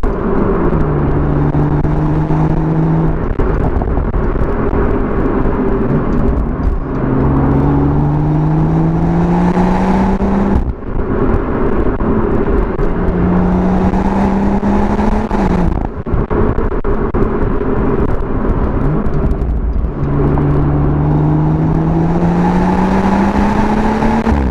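BMW M140i's 3.0-litre turbocharged straight-six pulling under acceleration, its note rising in pitch four times with short breaks between the pulls, like gear changes. A steady rushing noise runs under it.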